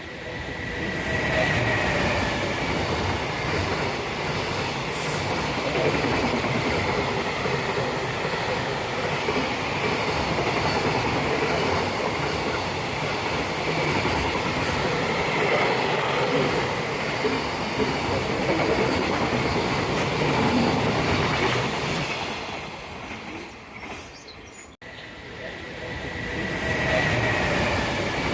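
Electric train running on the rails, loud and steady, with a thin high wheel squeal near the start and again near the end. The sound breaks off sharply for a moment about 25 seconds in, then resumes.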